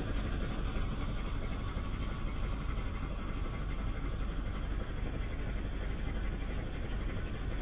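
A vehicle's engine running steadily, an even low rumble with no change.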